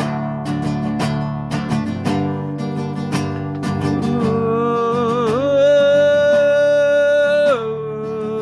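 Acoustic guitar strummed in a steady rhythm. About four seconds in, a long held melody note joins it, bends up and holds, then drops to a lower held note near the end.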